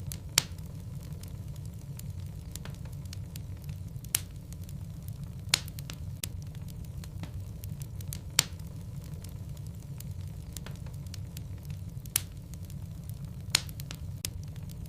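Wood logs burning in a fireplace: a steady low rumble of flames with frequent small crackles. About six sharp pops stand out, spaced one to four seconds apart.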